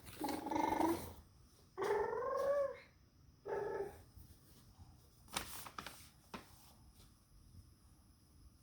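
A toddler making cat-like vocal noises: three short pitched squeals in the first four seconds, the middle one rising in pitch, then a couple of fainter breathy sounds.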